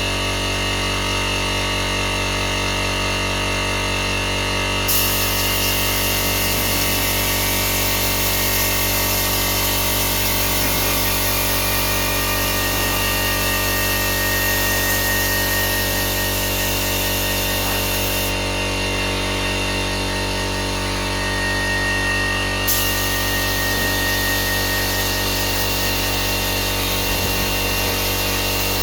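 A power tool running steadily with a constant motor drone and hiss; the high hiss cuts out abruptly for several seconds and returns.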